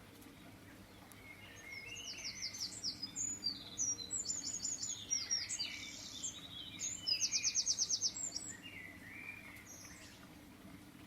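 Songbirds singing: a series of high, quick trills and chirped phrases, the loudest a fast, even trill about seven seconds in, over a faint steady low hum.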